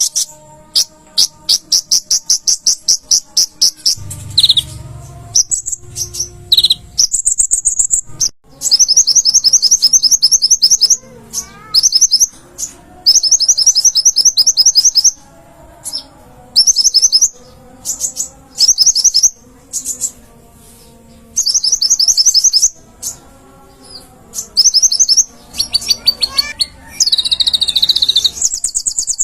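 Konin (kolibri ninja sunbird) singing: bursts of very fast, high-pitched trills, each a second or two long, separated by short pauses.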